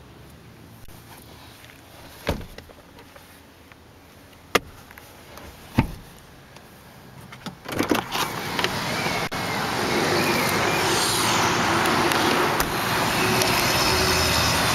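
A few sharp clicks and knocks, then about eight seconds in a loud, steady rushing noise sets in and holds.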